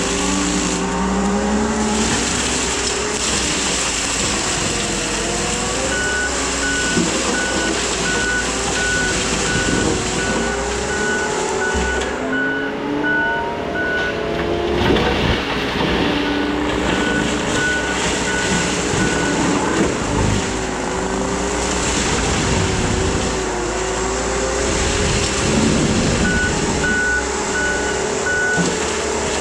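Case skid steer running steadily with its Shearex mulching head, the engine pitch wavering as it works. Its reversing alarm beeps in three spells while it backs up.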